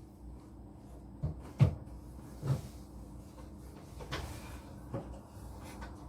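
A cat biting and tearing at oat grass: about five short, sharp snaps, the loudest about one and a half seconds in.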